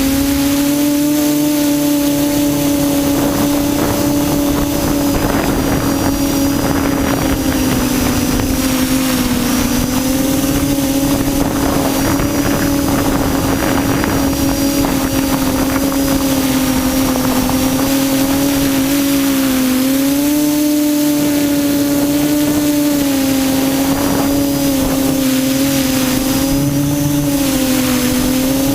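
Quadcopter's electric motors and propellers humming steadily in flight, the pitch wavering slightly up and down as the throttle shifts.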